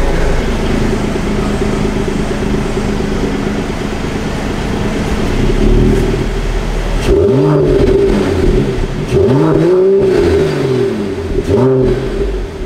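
Mercedes-AMG E53's 3.0-litre turbocharged straight-six running steadily, then revved in several sharp throttle blips from about seven seconds in, each rising and falling back in pitch.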